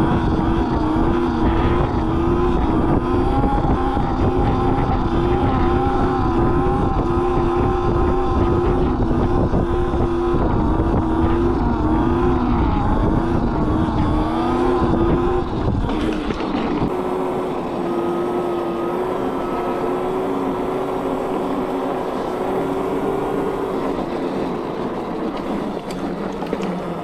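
Electric mini bike's motor whining while riding, its pitch wavering up and down with speed, over heavy wind rumble. About two-thirds of the way in, the rumble drops away and the whine goes on at a steadier pitch.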